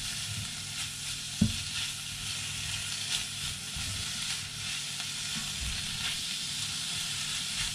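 Beef, egg and vegetables sizzling in a non-stick frying pan as a spatula stirs and scrapes through them, with one sharper knock about a second and a half in.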